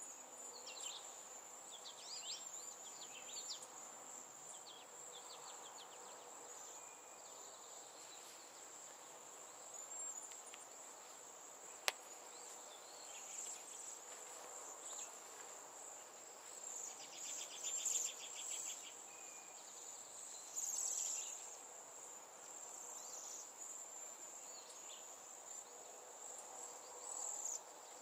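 A steady, high-pitched insect trill, such as a cricket, runs under scattered short bird chirps. A quick, evenly pulsed bird trill comes about two-thirds of the way through, and there is a single sharp click near the middle.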